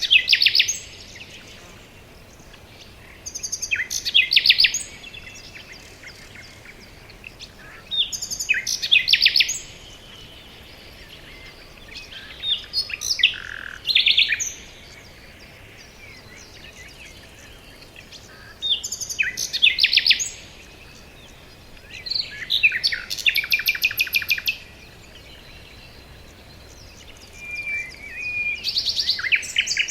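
Songbird singing in short phrases of rapid trilled high notes, each about one to two seconds long and repeated every few seconds, with a faint steady hiss of forest ambience between phrases.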